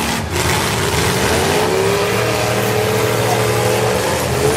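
Full-size demolition derby cars' engines running and revving together, their pitch rising and falling, over a steady wash of noise.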